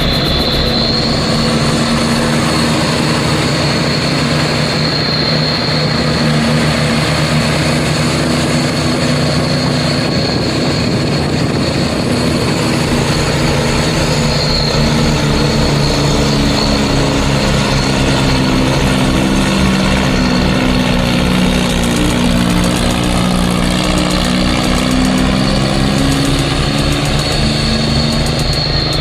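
Mini truck's engine running under way, its pitch drifting up and down with a steady high whine above it.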